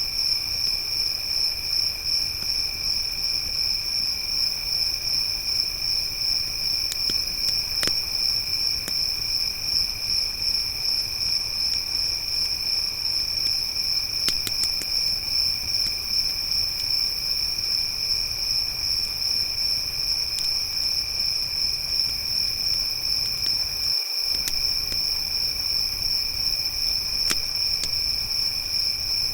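Crickets chirping in a continuous, fast-pulsing high trill, with a few faint crackling pops from a campfire scattered through it.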